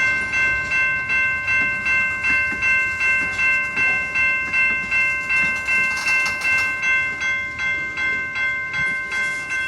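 Railroad crossing signal's General Signals Type 2 electronic bell dinging steadily, about three rings a second, while a slow-moving train goes through the crossing.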